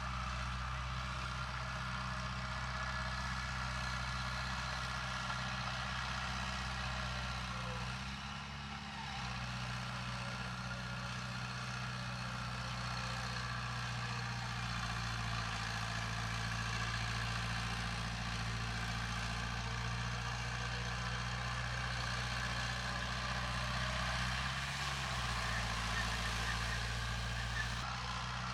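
Heavy diesel engine of earthmoving equipment running steadily, with a brief change in its note about a third of the way through and again near the end.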